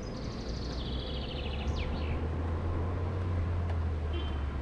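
Songbirds singing in fast high trills, with a quick falling note about two seconds in and a short trill near the end, over a steady low rumble that strengthens after about a second.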